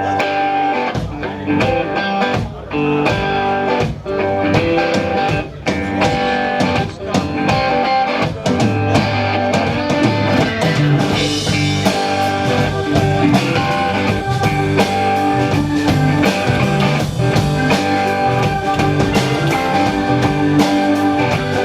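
Live rock band playing an instrumental passage: guitars over a drum kit keeping a steady beat.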